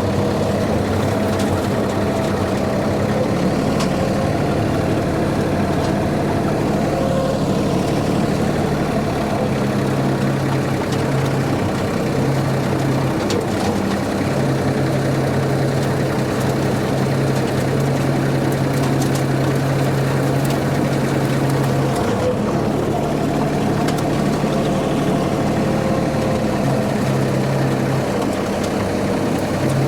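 Tractor engine running steadily at a constant speed, driving a brush hog rotary mower through weeds.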